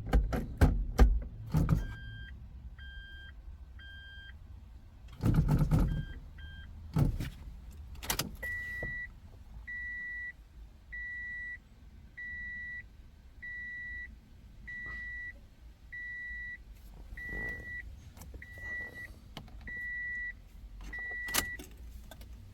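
Electronic beeping while a Toyota MMT gearbox runs its clutch calibration. First a few short two-tone beeps and a brief louder noise, then a long run of about eleven evenly spaced single beeps, one every second or so, ending shortly before the calibration completes.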